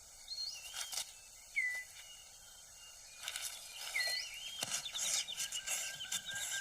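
Rainforest ambience with short whistled bird calls repeated every couple of seconds and a quick clicking trill about five seconds in. Over it come scattered rustles and taps of leaves and twigs as a male six-plumed bird of paradise clears his display court on the forest floor.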